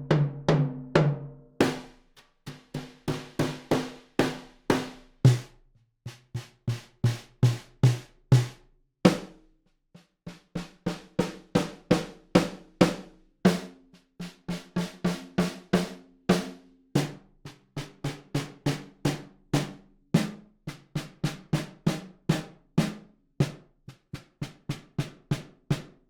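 Sampled acoustic snare drums from the Alchemy of Pop EZX in EZDrummer 3, auditioned one after another: each snare is struck in a quick run of single hits that rise from soft to loud, then a short gap before the next snare with a different ring and pitch.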